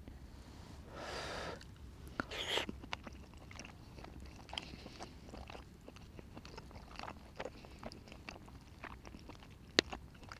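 A person chewing a mouthful of tender braised pork belly, with small wet mouth clicks throughout and a couple of louder breathy sounds in the first few seconds. There is one sharp click near the end.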